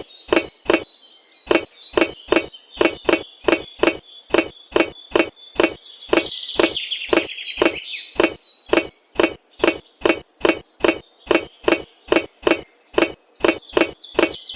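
Steady run of sharp knocks or taps, about three a second, with faint bird chirps about halfway through.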